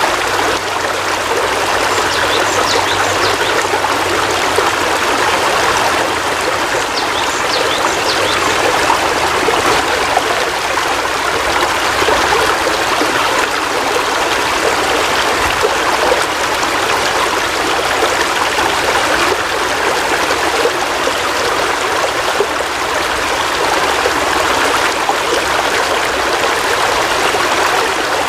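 Steady heavy rain: an even, unbroken wash of falling water.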